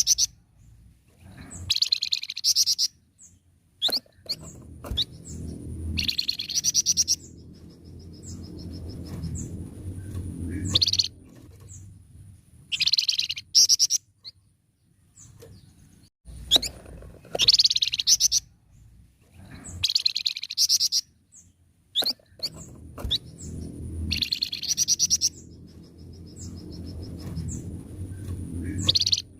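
A caged flamboyan songbird singing in repeated bursts of rapid, trilled twittering, each phrase about a second long and coming every few seconds. A low rumbling background noise fills the gaps between phrases.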